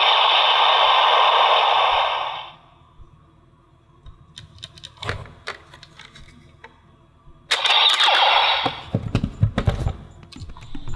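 DX Shotriser toy gun's speaker playing its electronic sound effects: a loud noisy blast that cuts off about two seconds in. A few sharp plastic clicks follow in the middle. A second loud blast comes about seven and a half seconds in, breaking into a rapid run of low thumps.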